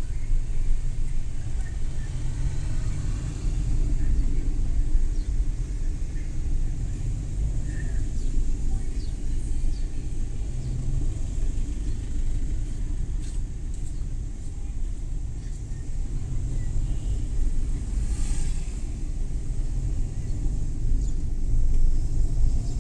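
Suzuki Every Wagon kei van driving, a steady low rumble of engine and tyres on the road, with a brief hiss about eighteen seconds in.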